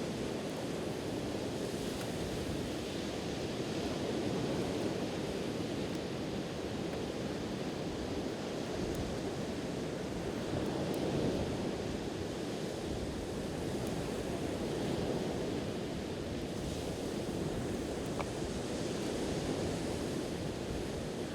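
Steady wash of sea surf on the shore, swelling and easing every few seconds, with a few faint crackles from a wood campfire.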